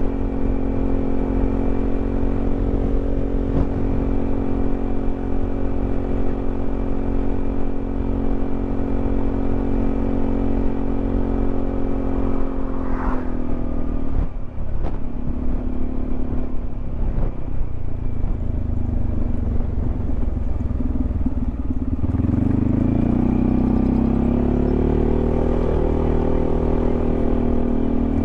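Yamaha XMAX 300 scooter's single-cylinder engine running steadily at cruising speed. The pitch drops as it slows about halfway through, then rises again as it accelerates near the end.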